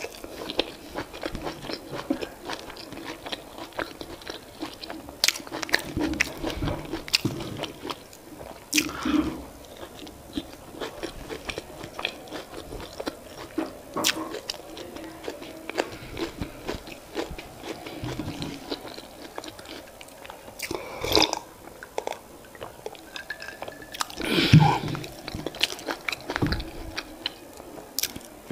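Close-miked chewing and mouth sounds of a person eating soft boiled yam and leafy vegetable sauce by hand: irregular wet smacks and clicks, with a few louder bursts in the last third.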